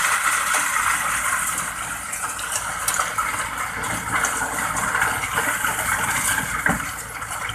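Sand pouring into a dump truck's bed: a steady rushing hiss with scattered small knocks, over a faint low engine hum.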